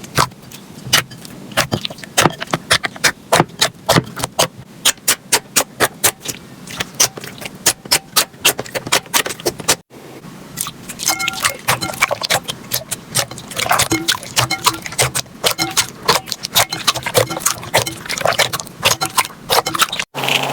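Slime being squeezed and poked by hand, giving rapid crisp clicks and pops. The clicks stop briefly about halfway through and then start again.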